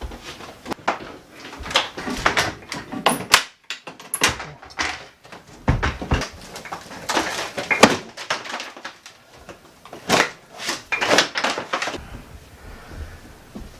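Irregular knocks, taps and scrapes of hand work on a drywall sheet and its fasteners, with quieter handling near the end.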